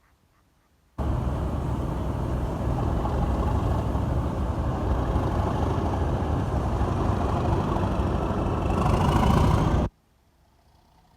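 A heavy vehicle engine running loudly and steadily. It starts suddenly about a second in, rises a little just before the end, then cuts off suddenly.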